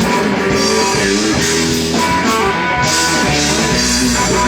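Rock band playing an instrumental passage between vocal lines, with guitar and drum kit, steady and loud.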